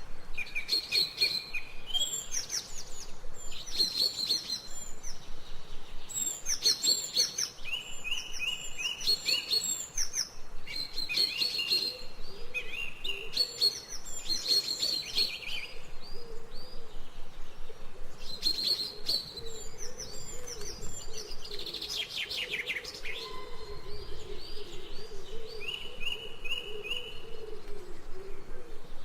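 Several songbirds chirping and singing in a garden: quick runs of short, high repeated notes and trills, coming and going throughout. A lower, wavering sound runs beneath them from about halfway through.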